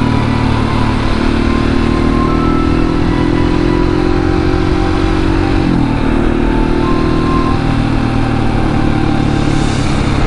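701 motorcycle's single-cylinder engine running under way, its note climbing slowly, then dropping sharply a little past halfway and holding steady. Wind rushes past the helmet camera throughout.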